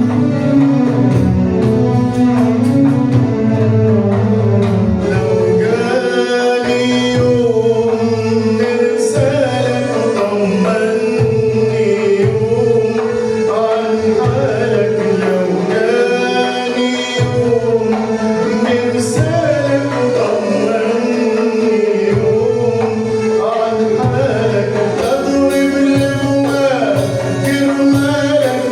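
A man singing an Arabic song in phrases over continuous instrumental accompaniment from a small ensemble.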